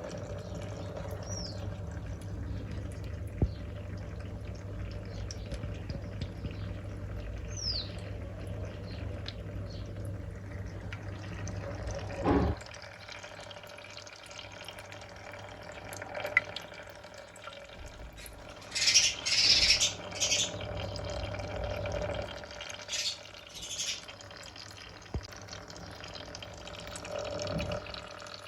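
Water trickling and dripping from a rain-cloud humidifier, over a low steady hum that stops with a knock about twelve seconds in. Later come a few short, splashy rushes of noise.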